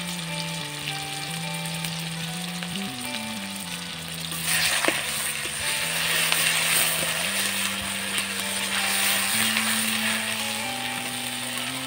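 Onion paste, garlic paste and green chillies sizzling in hot oil in a wok; about four seconds in the sizzle grows louder as a spatula stirs them, with a sharp click. Soft background music with held notes plays underneath.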